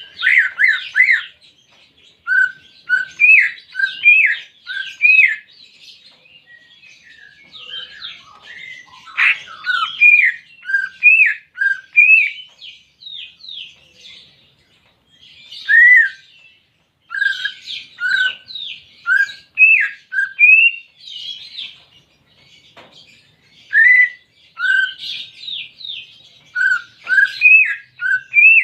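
Cucak ijo (green leafbird) singing: phrases of short, clear, slurred whistles, each bending up or down, over a fast twittering chatter, with brief pauses between the phrases.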